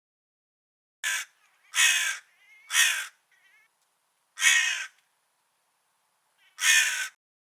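Crow cawing five times. The first three caws come about a second apart, then there are longer gaps before the fourth and fifth, with a few faint, softer calls in between.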